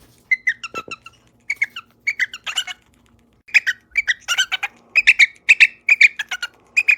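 A pet bird calling in quick runs of short, sharp chirps and squawks, with a brief pause about halfway through.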